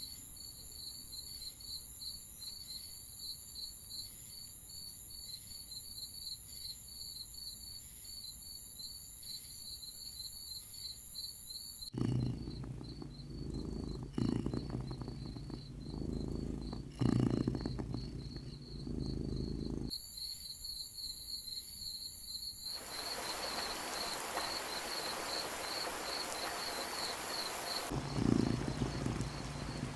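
Night insect ambience: crickets chirping in a steady pulsing trill. About 12 s in it gives way to low rumbling with three deep booms. The crickets return near 20 s, and from about 23 s a steady rushing hiss joins them, with another low rumble near the end.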